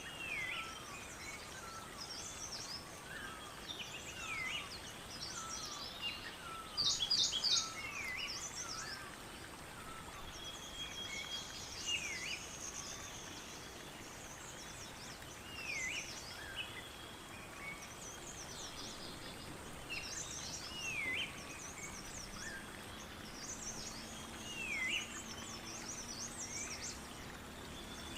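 Several birds chirping and calling, one repeating a short call that swoops down and back up every three or four seconds, over a faint steady high-pitched buzz. A faint low drone comes in after about twenty seconds.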